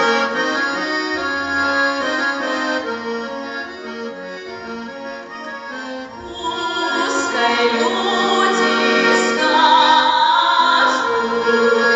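Accordion playing a melody in held chords, with a singing voice joining about halfway through.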